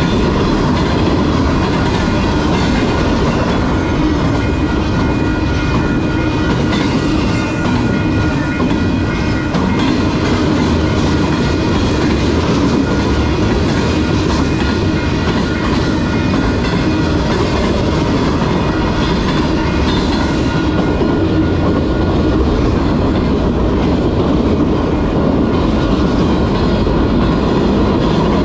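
Train cars rolling steadily past close by: a continuous, loud rumble of steel wheels on rail with clickety-clack, and a thin steady ringing tone above it.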